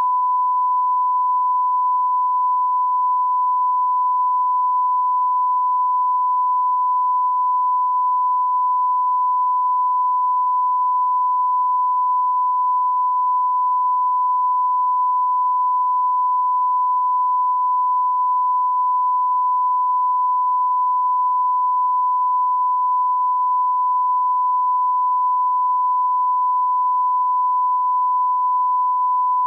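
Broadcast line-up test tone: a steady 1 kHz pure tone at constant level, the reference tone that accompanies colour bars.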